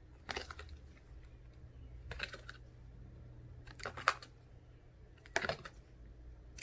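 Four short, soft vocal sounds spaced about a second and a half apart, like single speech sounds sounded out one at a time, over a faint steady hum.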